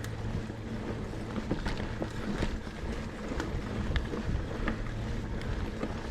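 Mountain bike ridden along a dirt trail: a steady rumble of tyres and wind on the microphone, with irregular sharp clicks and knocks from the bike as it goes over the ground.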